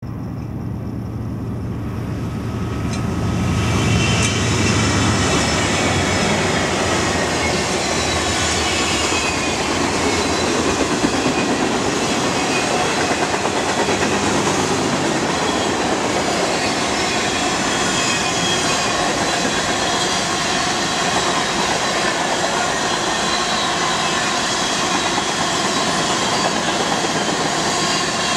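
BNSF mixed freight train passing: a low diesel drone for the first few seconds, then the freight cars rolling by steadily with a dense rumble of wheels on rail and faint high wheel squeal.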